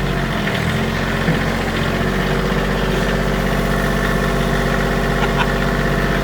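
A small vehicle engine running steadily while under way, dipping briefly in pitch about half a second in and then holding an even note.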